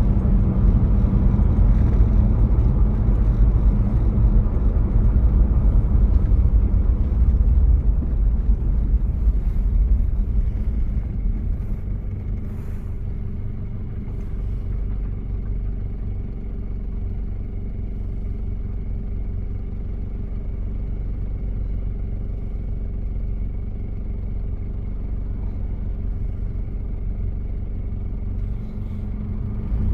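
1993 Toyota Prado's diesel engine running steadily on the move, louder for the first ten seconds or so, then easing to a quieter, even drone from about twelve seconds in.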